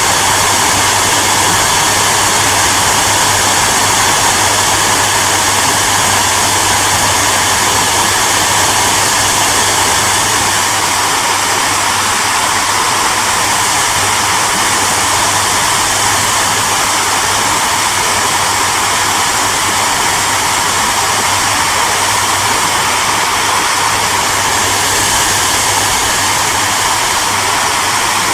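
Electric hair dryer running steadily: even blowing noise with a low motor hum underneath.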